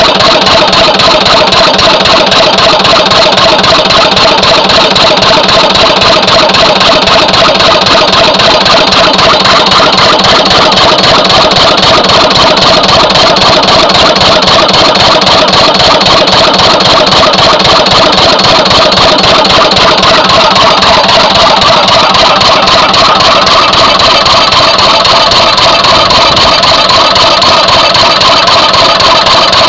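Lister CS twin-cylinder stationary diesel engine running steadily, with a fast even beat. The fuel pumps have been balanced, but the owner finds the number two cylinder still slightly weaker and suspects its injector's spray pattern.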